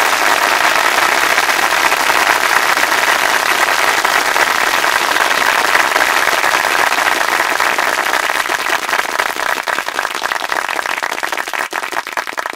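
Crowd applauding, dense at first, then thinning into scattered separate claps over the last few seconds before stopping.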